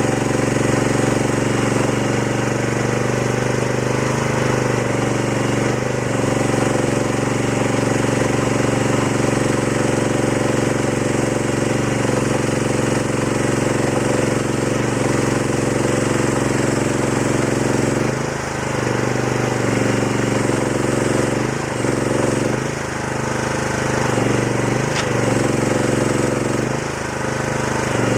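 Chinese mini excavator's diesel engine running steadily, its pitch and level dipping and recovering several times in the last ten seconds or so.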